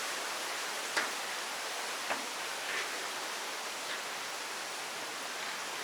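Steady, even rush of a waterfall, with a couple of faint clicks about one and two seconds in.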